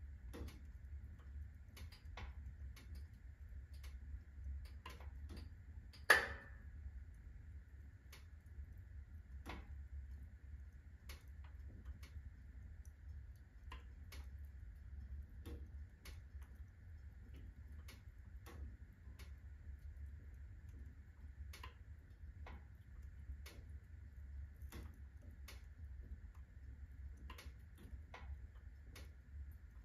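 Firewood burning in a fireplace at full blaze, crackling with scattered irregular snaps and one loud pop about six seconds in, over a low steady hum.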